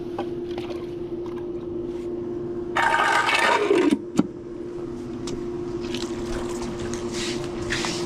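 Handling of a pool vacuum hose being coiled up, with scrapes and knocks, and a brief loud gush of water about three seconds in, ending in a sharp knock. A steady hum from the running pool pump continues underneath.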